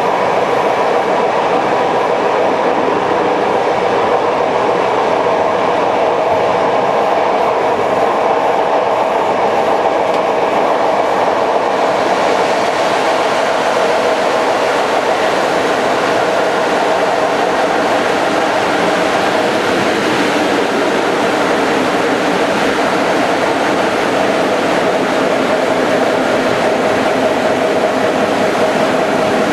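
A passenger train running along the line with a steady rolling noise of wheels on rails. The noise gets brighter and hissier about twelve seconds in.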